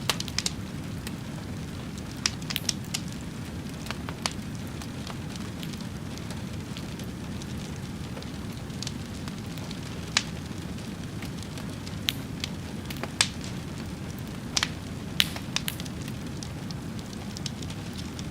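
A fire crackling: a steady low rush with irregular sharp pops and snaps, a few bunched together and others several seconds apart.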